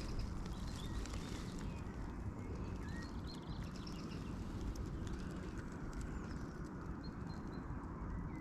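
Faint bird chirps over a steady low rumble.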